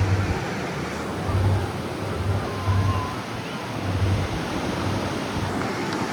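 Steady rushing noise of surf and wind, with repeated low gusts buffeting the microphone.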